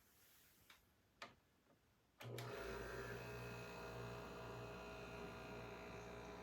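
A couple of faint clicks, then about two seconds in an Electrolux UltimateHome 700 air-purifying dehumidifier starts up and runs with a steady hum made of many steady tones. The owner takes this hum for an abnormal resonance noise; the manufacturer's engineer says it is normal.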